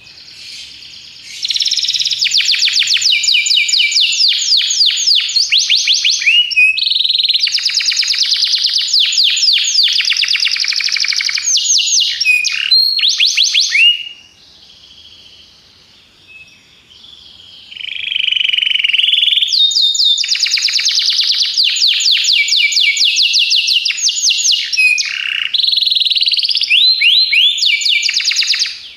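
Belgian canary singing: long runs of rapid trills and rolls, with a softer pause about halfway through before the song resumes.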